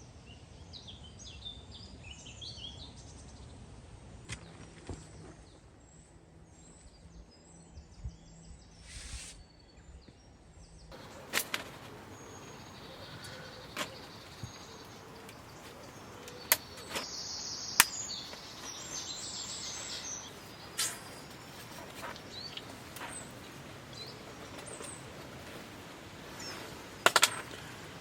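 Small birds chirping in woodland over a faint steady background, with a handful of sharp clicks and snaps in the second half.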